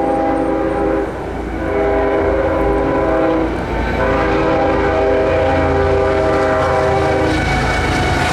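A passing freight diesel locomotive blows its multi-chime air horn: three blasts, the last one longest, over the heavy rumble of the locomotive and train, which grows louder near the end.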